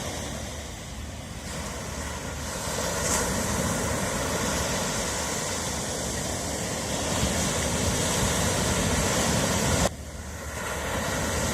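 Ocean surf washing on a shore: a continuous rush of breaking waves that swells and eases. It drops away suddenly about ten seconds in, then builds up again.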